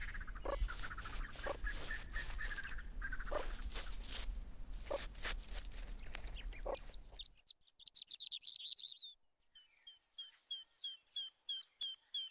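A steady rushing noise with a low rumble, scattered clicks and faint calls, which cuts off suddenly about seven seconds in. In the quiet after it, a small bird sings: first a quick trill, then a regular string of short falling chirps, about three a second.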